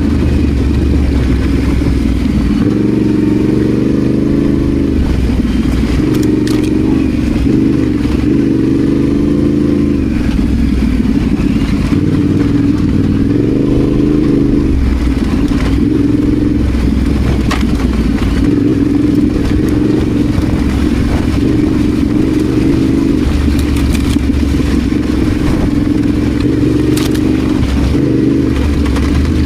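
Adventure motorcycle engine running under load off-road, its note rising and falling again and again with the throttle. A few sharp knocks and rattles come through from the bike over rough ground.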